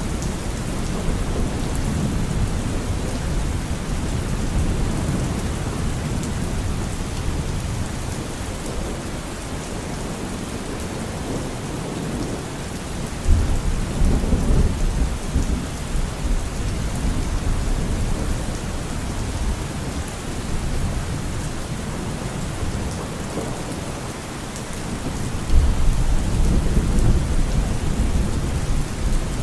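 Steady rainfall with thunder rumbling low beneath it. The thunder swells up sharply about 13 seconds in and again near the end.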